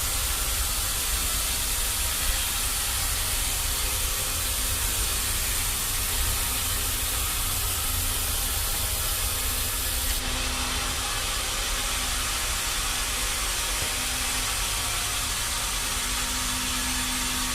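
Sawmill machinery running steadily, a continuous rushing hiss over a low rumble. The hiss shifts abruptly about ten seconds in.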